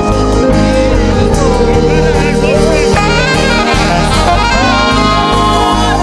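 Live gospel band playing: a saxophone carries a bending, gliding lead melody over keyboard and drums.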